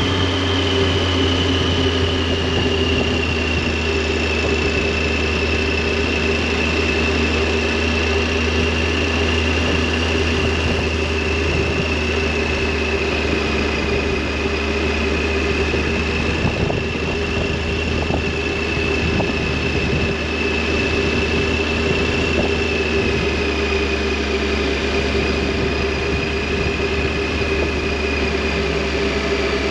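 Triumph Tiger 800's three-cylinder engine and exhaust running at a steady, nearly constant speed under way. A thin high whine drifts slowly lower alongside it.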